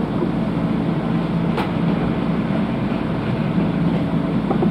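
Steady hum of a stationary electric train car's onboard equipment, with one sharp knock about one and a half seconds in as the car's sliding door shuts.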